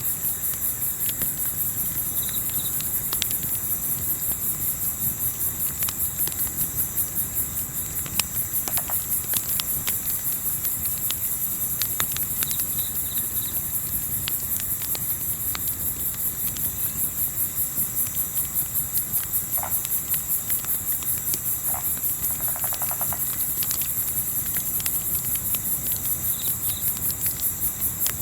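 Crickets chirping in a dense, rapid, steady pulse, with scattered sharp crackles and pops from a campfire and a few brief faint animal calls.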